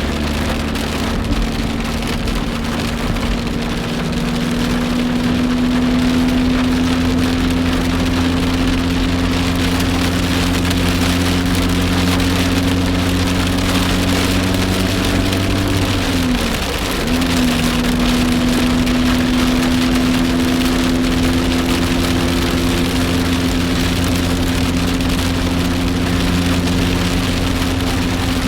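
A car engine runs steadily over the hiss of rain. A little over halfway through, the engine note dips briefly and picks up again, as at a gear change.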